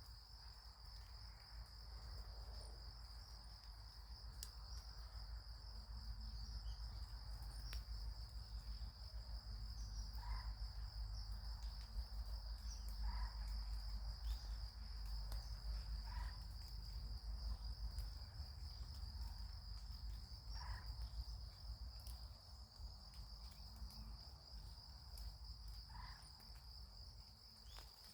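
Insects trilling in one steady high-pitched drone, with a few short faint chirps a few seconds apart and a low rumble underneath.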